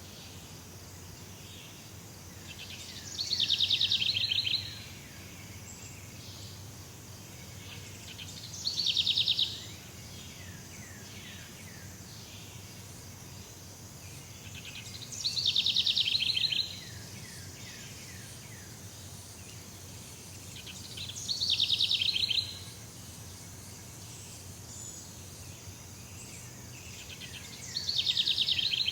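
Jungle ambience: a loud, rapid pulsed trill about a second and a half long repeats about every six seconds, five times in all, over a steady high insect-like hiss and a low rumble.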